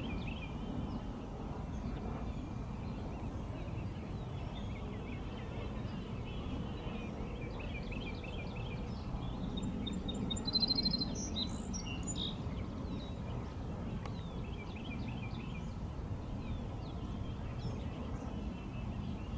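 Small birds chirping repeatedly, with a busier run of calls about ten seconds in, over a steady low background rumble.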